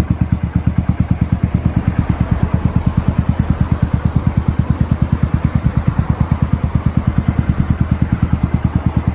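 1997 Yamaha SR400's air-cooled single-cylinder four-stroke engine idling, with an even beat of about ten exhaust pulses a second.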